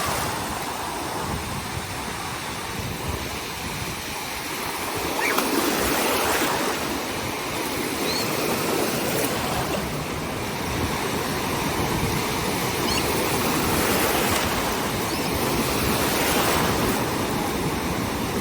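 Ocean surf washing in and out: a steady rush of breaking waves that swells every few seconds.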